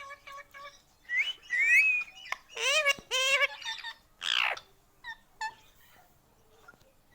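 Indian ringneck parakeet vocalising: a couple of whistled glides, two pitched calls, a falling screech, then a few short chirps.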